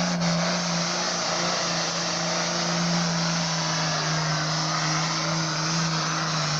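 International 1466 pulling tractor's diesel engine running hard under full load as it drags the sled, with a loud steady engine note that slowly drops in pitch through the pull.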